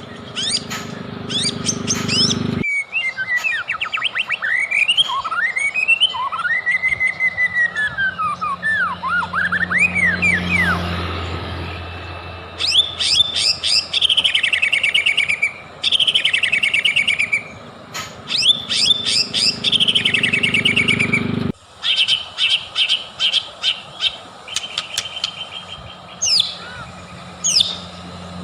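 White-rumped shama (murai batu) singing loudly, as a lure recording meant to get caged shamas singing. It gives varied whistles that slide up and down, then fast repeated trilled phrases. The song breaks off abruptly twice where the recording is spliced.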